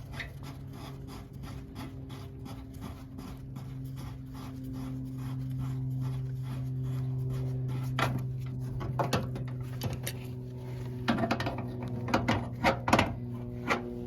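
A machine running with a steady hum, over a run of light, regular ticks, with several louder knocks and clicks in the second half.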